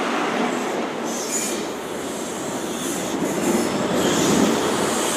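Mark 3 coaches of an HST train rolling slowly past into a terminus platform as it brakes, wheels on rail, with a high wheel squeal rising near the end.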